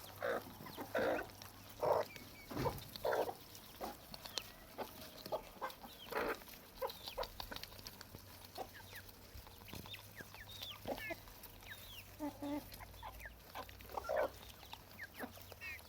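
Chickens clucking: irregular short calls, several in quick succession during the first few seconds, then spaced out, with thin high falling chirps mixed in.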